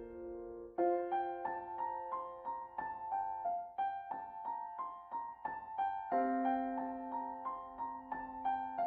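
Background piano music: a melody of evenly spaced notes, two to three a second, over held lower notes.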